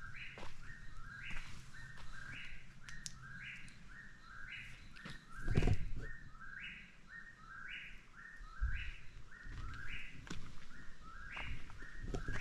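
Eastern whip-poor-will singing its three-part 'whip-poor-will' phrase over and over, about one phrase a second. A dull thump comes about halfway through.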